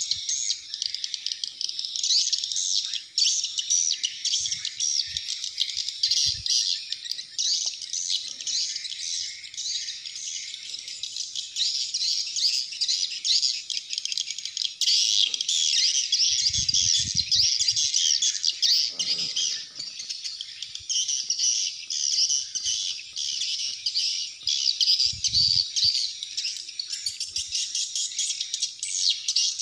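Swiftlet calls at swiftlet nesting houses: a dense, continuous high twittering with no pause. Two brief low rumbles occur about two thirds of the way through and again near the end.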